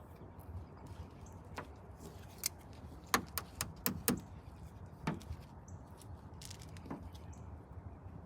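A series of sharp clicks and taps, irregular and clustered in the middle, about eight in all, over a low steady hum.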